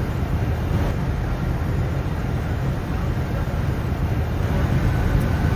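Steady low rumble of airflow and engines on the flight deck of a Boeing 747-400 on final approach.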